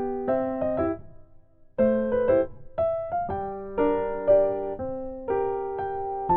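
Background music: a gentle keyboard melody in a piano sound, note after note, with a brief pause about a second in before it resumes.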